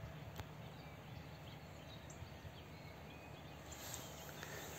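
Faint open-air background noise with scattered short bird chirps, a few more of them near the end.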